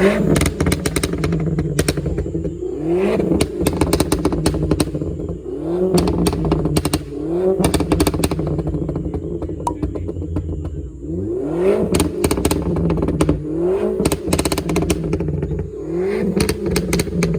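A car engine revved again and again, about eight quick blips that each rise and fall in pitch, with sharp crackling around the revs over a steady low drone.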